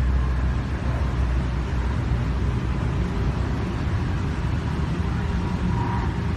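Steady low rumble and hiss of a moving vehicle, cutting off suddenly near the end.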